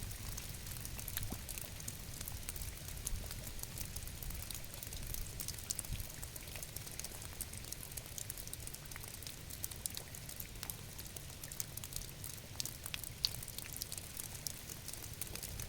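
Steady rain falling, with many separate drop impacts heard as fine sharp ticks over a low steady rumble.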